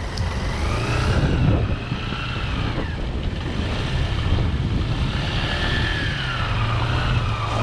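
Motorcycle engine running under way, its pitch rising and falling several times as the revs change, over a steady low rumble.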